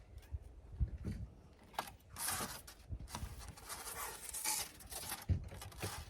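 Rasping, rustling strokes of material being cut or handled, with a couple of light knocks.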